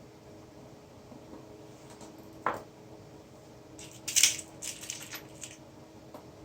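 A sharp click, then a second or so of light metallic clinking and rattling, over a steady low hum.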